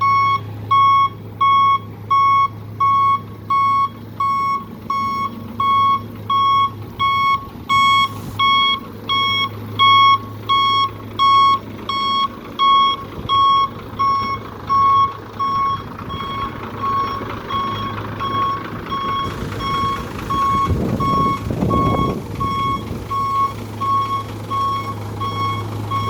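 Water truck's reversing alarm beeping steadily, about one and a half beeps a second, over the low hum of the truck's engine running. About 21 seconds in, a brief surge of rushing noise rises over it.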